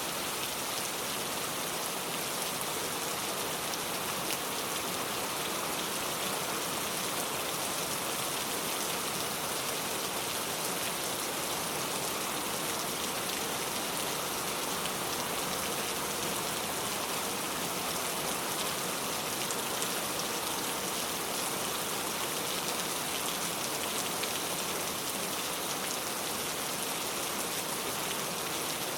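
Steady rain falling: an even hiss of many fine drops striking surfaces, unchanging in strength throughout.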